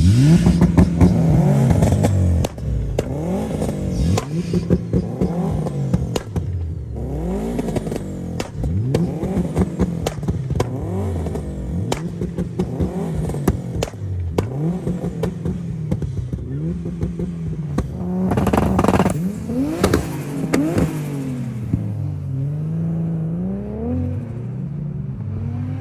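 Car engine revved hard over and over, its pitch climbing and dropping every couple of seconds, with sharp exhaust crackles and pops. It gets louder for a moment at about nineteen seconds.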